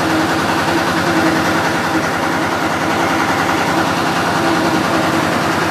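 An engine idling steadily, with a fast, even firing pulse.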